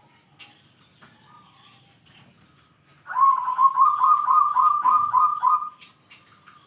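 Zebra dove (perkutut) cooing. About three seconds in it gives one loud trilled coo of rapid pulses at a steady pitch, lasting nearly three seconds, with a few faint clicks around it.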